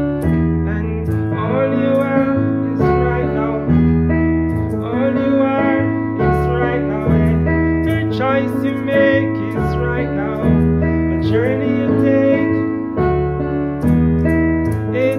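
Electric keyboard playing sustained chords that change every second or two, with a voice singing a wavering chant melody over them.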